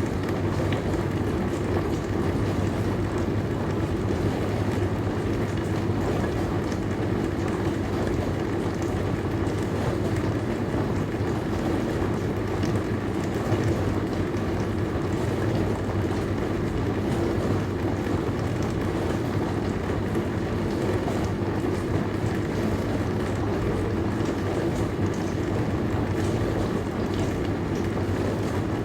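Dishwasher running: a steady low hum under an even rushing wash that does not change.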